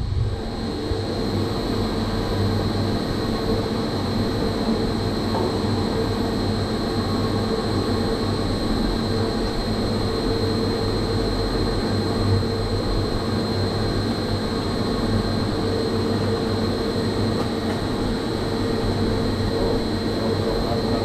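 A 7.5 kW electric motor driving an air-conditioning fan, running steadily on its test run after a bearing replacement and alignment. It gives a continuous low hum with a steady high whine over it.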